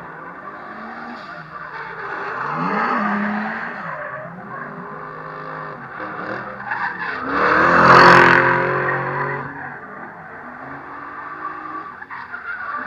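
Drift cars' engines revving up and down, with tyre squeal. The loudest moment is a car coming close about eight seconds in.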